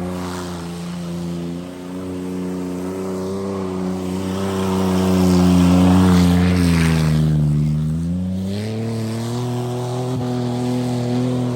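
Car engine held at high revs. Its pitch drifts slowly, sags about seven seconds in, then climbs back and holds steady.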